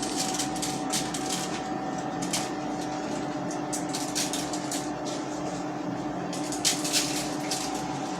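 Brown sugar being sprinkled and spread by hand over bacon-wrapped chicken drumsticks: irregular short, soft hissy rustles of the grains. Under them runs a steady low hum.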